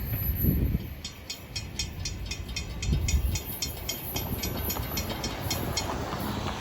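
Freight cars of a Florida East Coast train rolling past with a low rumble, joined by a rapid even high ticking, about four to five strokes a second, that starts about a second in and stops near the end.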